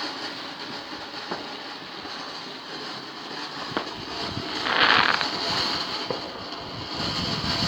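Ground firework fountain hissing steadily as it sprays, with a few sharp crackles and a louder surge of hissing about five seconds in.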